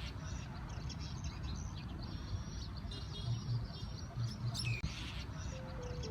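Birds chirping in short high calls over a steady low rumble; music comes in near the end.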